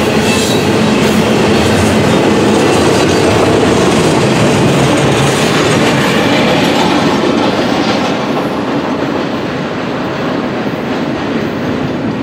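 Double-stack intermodal freight train rolling past on steel wheels and rails, its well cars rattling. The sound stays loud, then fades and dulls from about eight seconds in as the tail end moves away.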